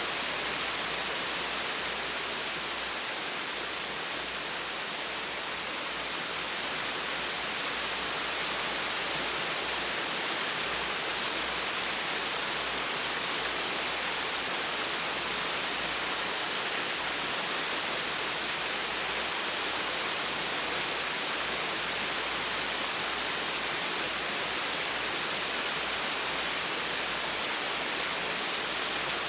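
Small waterfall splashing: a steady, even rush of falling water.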